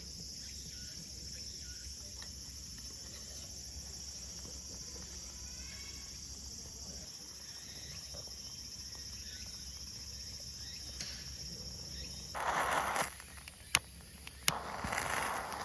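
Steady high-pitched insect trill that stops about three-quarters of the way through, followed by short rustling handling noises and two sharp clicks.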